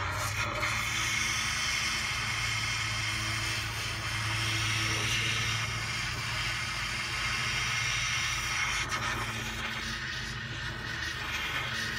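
Propane torch burning with a steady hiss, heating a seized part to free it.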